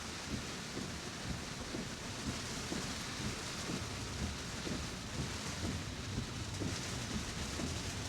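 Heavy rain pelting a Tesla's roof and windshield, heard from inside the cabin as a steady hiss over a low road rumble.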